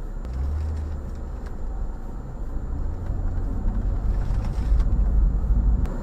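A low rumble that grows louder near the end and then stops abruptly.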